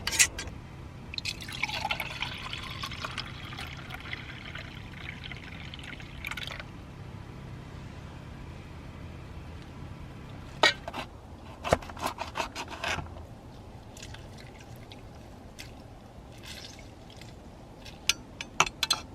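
A drink poured from its container into a cup in a steady stream lasting about five seconds, followed by several light clinks and taps of the containers.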